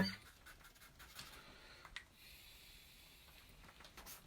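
Faint scratching of a pen drawing on paper, with a few light taps.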